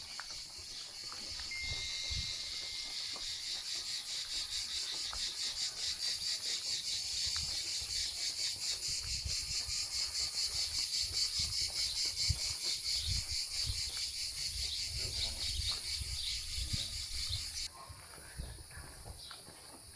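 Insects chirping in a fast, even, high-pitched pulse that swells over the first couple of seconds and then cuts off suddenly near the end.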